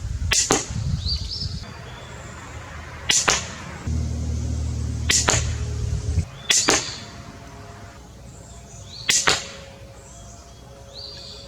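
Cobra pistol crossbow being shot: about five sharp snaps a few seconds apart, several of them doubled. A low rumble runs for about two seconds midway.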